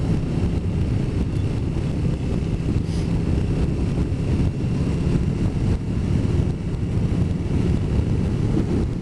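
Motorcycle engine running at a steady cruise, with wind noise on the microphone.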